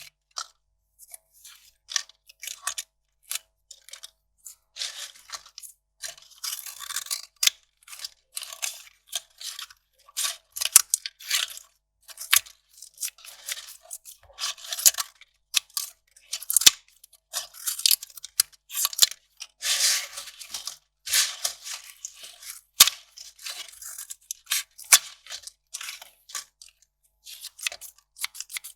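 Kraft paper being torn and crinkled by hand: an irregular run of short, crisp rips and crackles, with a few longer tears.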